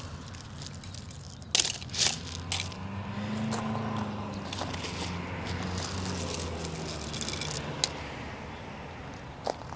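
Hand-weeding in dry, gravelly soil: scraping and crunching with a few sharp snaps, the loudest ones about two seconds in. A low hum swells and fades through the middle.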